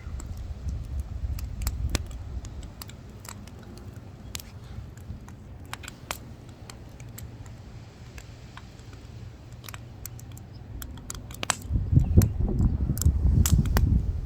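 Firewood burning with irregular sharp crackles and pops. A low rumble of wind on the microphone grows loud near the end.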